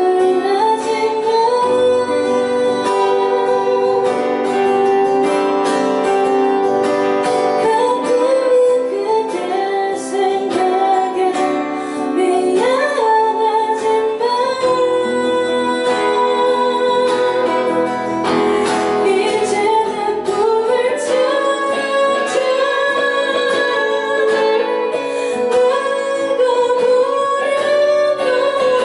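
Female vocalist singing a Korean indie pop song over guitar accompaniment, performed live.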